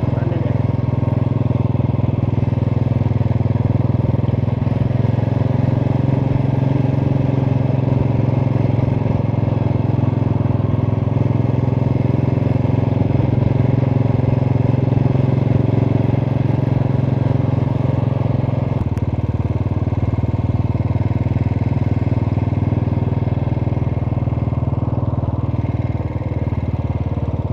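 Motorcycle engine running steadily as the bike is ridden along, heard from the rider's seat. Its note shifts slightly about two-thirds of the way through.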